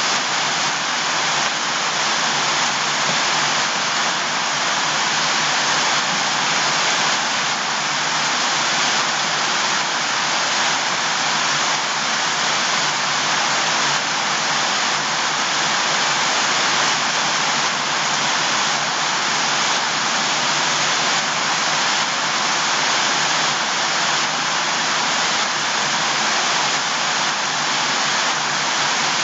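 Steady sound of water, an even, unbroken hiss.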